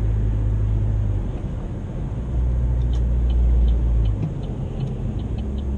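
Chevy Sonic's 1.4-litre turbocharged Ecotec four-cylinder engine droning, heard from inside the cabin while driving. The engine note drops about a second in and steps up again a little after two seconds, with faint rapid ticking in the second half.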